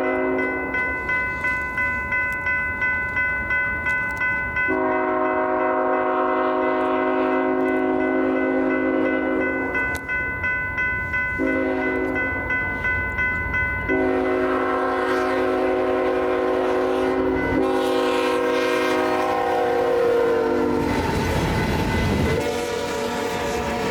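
A BNSF locomotive's multi-chime air horn sounds a grade-crossing pattern of long, long, short, long blasts. The pitch drops as the locomotive passes, and the rolling rumble of the train follows. A crossing bell rings about twice a second underneath.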